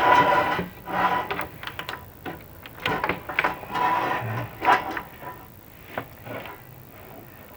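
Chimney inspection camera and its cable scraping and rubbing against clay flue tiles as the camera is fed down the flue, in irregular bursts with a few sharp knocks.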